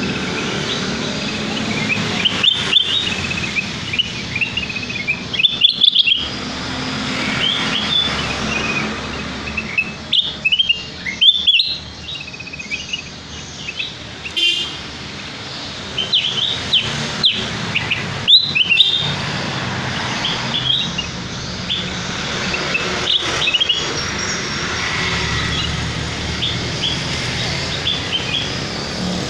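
Kutilang emas, a bulbul, calling in repeated short phrases of quick chirps and rising and falling whistled notes, over a steady low rumble. It is a pikat call, the kind played to lure wild birds of its kind.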